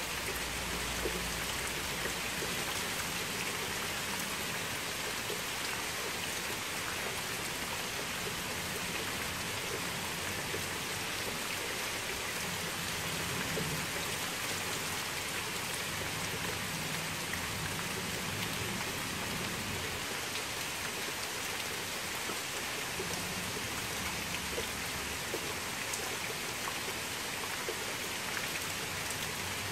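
Steady rain falling on a gravel path and wet ground, an even hiss of many small drops.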